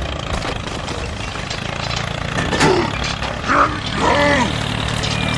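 A steady low engine drone, typical of a machine idling, with a few short pitched, voice-like cries over it about halfway through, one of them gliding down in pitch.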